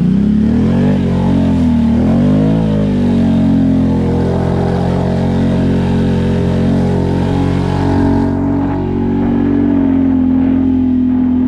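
Can-Am ATV engine revving up and down a couple of times, then held at a fairly steady pitch under way.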